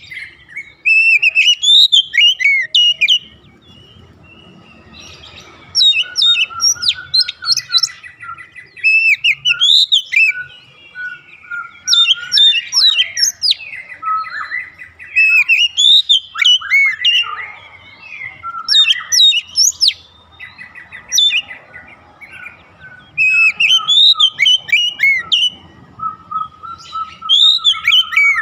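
Oriental magpie-robin (kacer) singing: loud bouts of rapid, varied whistled phrases with sweeping notes, each a second or two long and separated by short pauses, about a dozen bouts in all.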